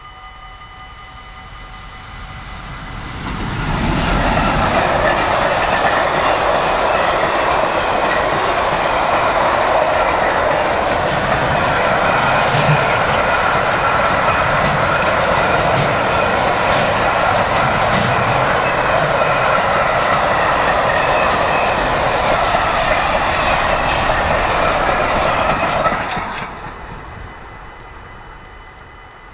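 Freight train of red double-deck wagons behind an electric locomotive rolling past close by for about twenty seconds: a loud steady rumble of wheels on rail with a few sharp clanks, building up over the first few seconds and dying away near the end. The level-crossing warning bell rings steadily before the train arrives and again after it has passed.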